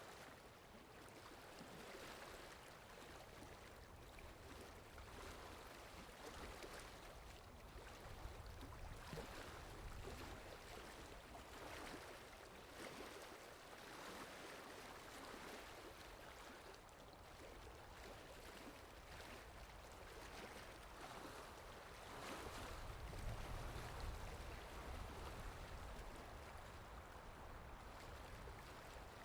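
Faint, steady water ambience sound effect, like flowing or gently washing water, swelling slowly and growing fuller with a low rumble about twenty-two seconds in.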